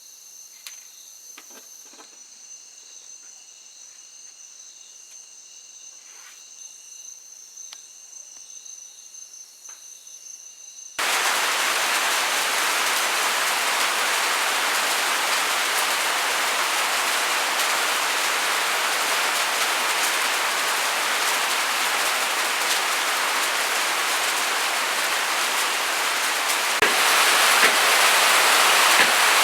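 Insects trilling in several steady high tones, with a few faint clicks; about eleven seconds in, an abrupt cut to a loud, even rush of heavy rain, which grows louder again near the end.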